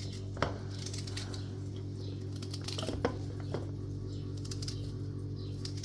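A steady low hum with a few light knocks and clinks, like kitchenware being handled.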